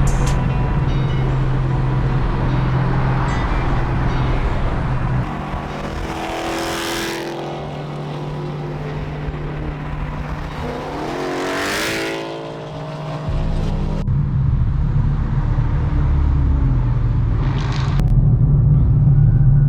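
Car engines running, with engine revs that rise in pitch about six and twelve seconds in.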